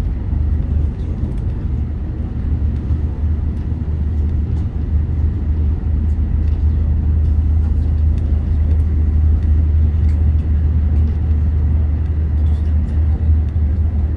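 Meitetsu Panorama Super electric train running at speed, heard from inside the car: a steady low rumble with faint scattered clicks.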